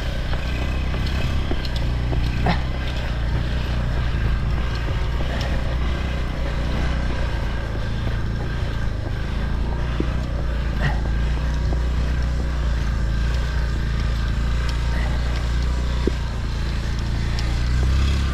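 Motorbike engine running steadily under way, a continuous low rumble.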